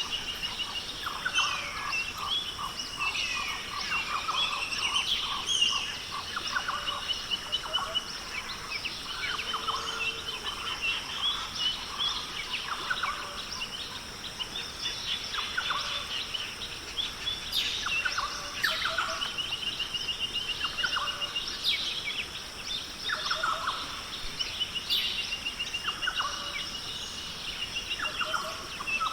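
Tropical forest ambience: several birds calling and trilling over one another, with rapid repeated trills and short calls recurring throughout, over a steady high-pitched hum.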